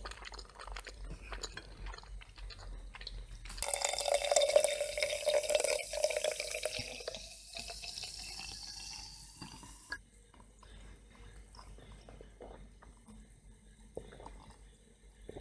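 A drink poured into a glass for about six seconds, starting about four seconds in; the pitch rises steadily as the glass fills. Faint small clicks before and after.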